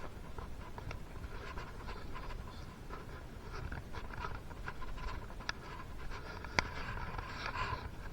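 Small clicks and scratchy rustling of hands handling metal engine parts and tools while fitting a piston to a two-stroke engine, with one sharper click about six and a half seconds in.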